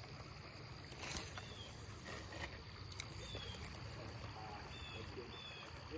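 Faint creekside ambience: a low steady rumble, with small birds giving short high chirps several times and a few sharp ticks.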